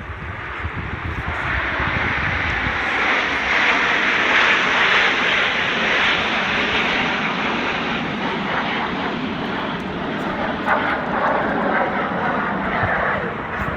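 Airplane flying past overhead, its engine noise rising to a peak about four to five seconds in and then easing off slowly while staying loud.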